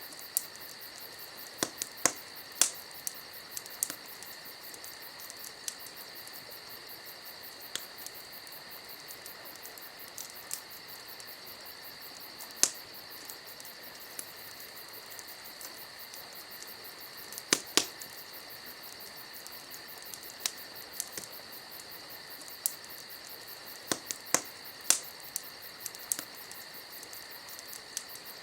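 Crickets chirping steadily, with a campfire crackling and popping in sharp, irregular snaps; the loudest pops come in quick pairs past the middle and near the end.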